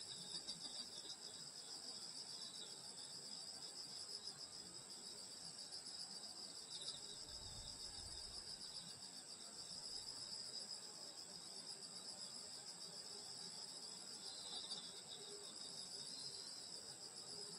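A summer night chorus of crickets and other grass insects, a steady high chirring with a fast, even pulse. A faint low rumble comes in briefly about halfway through.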